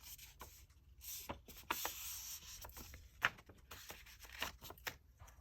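Paper pages being folded and creased by hand: soft rustling and scraping with scattered light taps, and a sharper tick about three seconds in.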